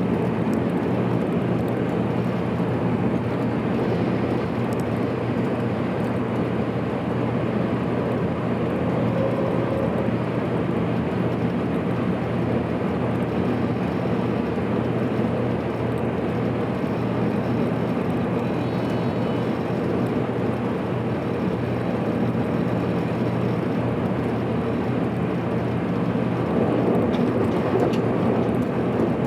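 JR Kyushu 783 series electric train running steadily at speed, heard from inside the train: a continuous rumble of wheels on rail with a low motor hum.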